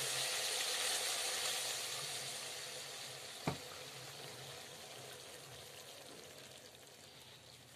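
Cauliflower and potato sizzling in a metal wok, fading steadily as the pan cools with the gas turned off. A single clink of a metal slotted spoon against the pan comes about three and a half seconds in.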